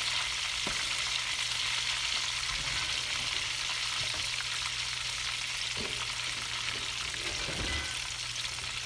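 Breaded chicken pieces frying in hot oil: a steady sizzle throughout, with a few faint clicks.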